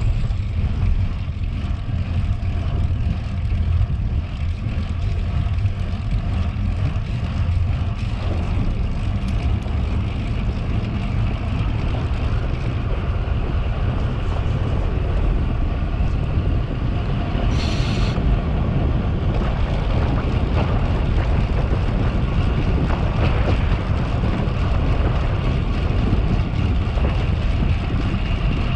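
Steady wind rushing and buffeting over the camera microphone while cycling at speed. A brief high-pitched chirp comes a little past halfway.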